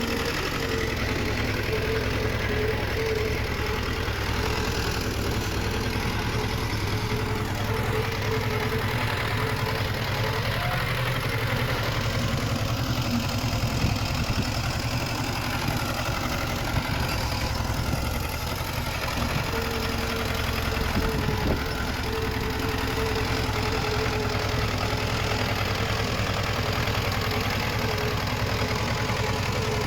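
Diesel engine of earthmoving machinery running steadily, with a whine that fades out about a third of the way in and comes back later.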